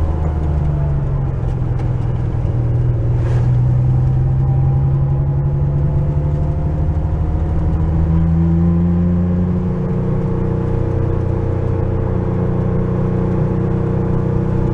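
Porsche 911's flat-six engine running under way as the car is driven, its pitch rising and dropping a few times as it accelerates and changes gear.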